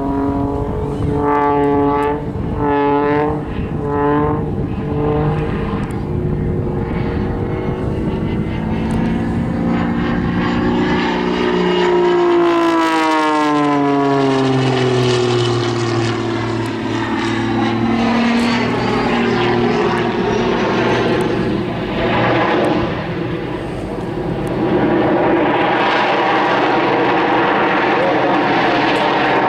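Jet-assisted Pitts aerobatic biplane in display flight. The engine and propeller note wavers up and down for the first few seconds, falls steadily in pitch from about twelve seconds in, then holds steady.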